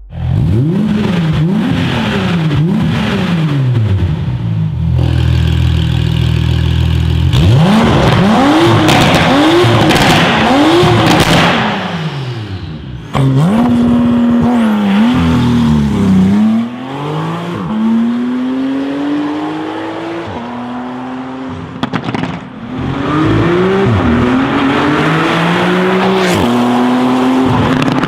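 Porsche 991.2 Carrera S twin-turbo flat-six revved again and again through an Armytrix aftermarket exhaust. The revs climb and fall in quick repeated blips, and the engine holds a steady high rev for a couple of seconds about five seconds in.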